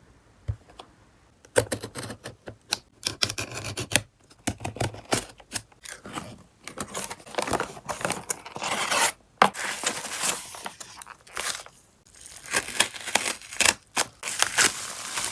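Parcel packaging being opened by hand: irregular crinkling, scraping and tearing with sharp clicks and snips. It starts about a second and a half in.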